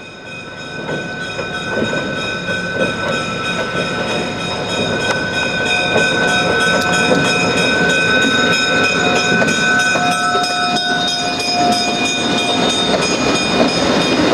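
A diesel-hauled passenger train, an EMD E5 locomotive pulling the stainless-steel Nebraska Zephyr train set, approaches and passes, growing louder over the first few seconds. The wheels click steadily over the rail joints, and a steady high-pitched squeal runs under the clicking for most of the time.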